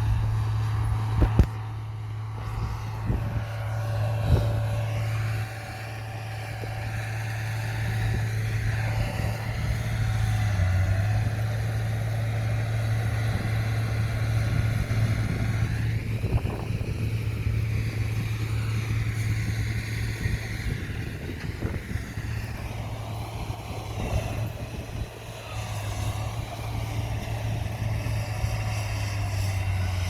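Komatsu bulldozer's diesel engine running steadily under load, with a few sharp knocks near the start.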